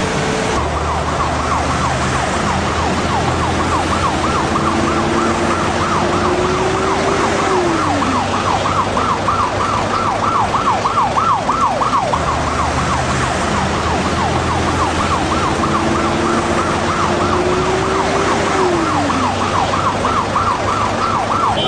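Emergency vehicle siren in a fast, steady warble over engine and road rumble. A lower tone rises slowly and then drops off, twice.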